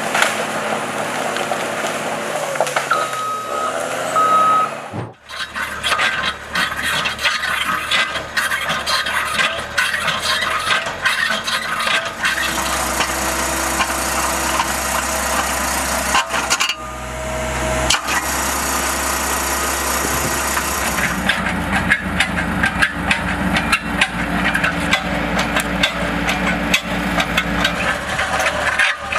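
Machinery running with a low steady hum under dense rattling and scraping. The sound changes abruptly about five seconds in and again about seventeen seconds in.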